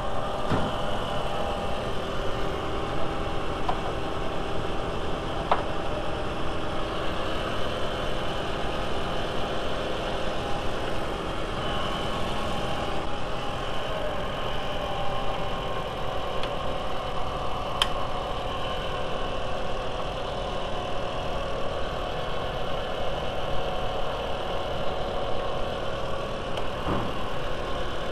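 VW 1.8T turbocharged four-cylinder engine idling steadily, run after a coolant refill to check for leaks, with an occasional light click.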